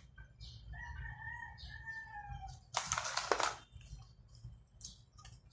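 A rooster crowing in the background: one drawn-out call of about two seconds that wavers slightly and falls at its end. About three seconds in comes a brief, louder crackling rustle.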